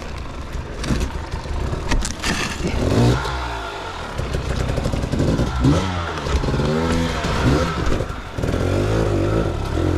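Dirt bike engine revving up and down repeatedly in short blips, with clattering knocks and a sharp knock about two seconds in.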